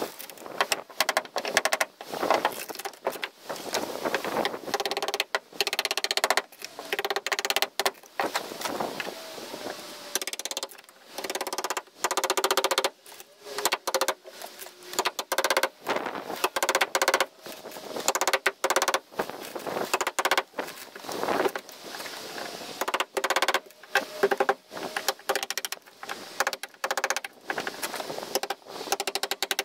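Power saw cutting through a boat's transom in short, choppy bursts, starting and stopping every second or two with a rattling edge.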